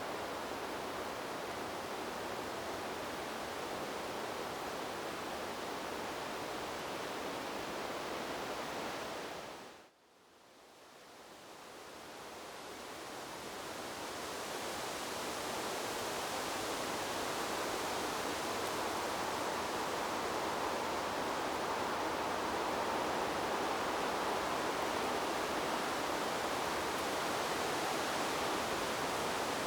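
Steady rushing noise of wind blowing through trees. About ten seconds in it fades quickly almost to silence, then swells back up over several seconds to a slightly louder, fuller rush.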